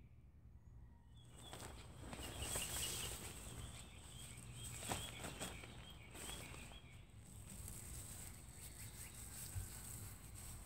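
Faint outdoor woodland ambience: birds chirping now and then over a steady high insect buzz, with a few light clicks and rustles.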